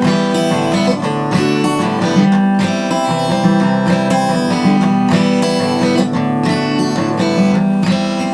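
Instrumental music led by a strummed acoustic guitar, with the chords changing every second or so and no singing.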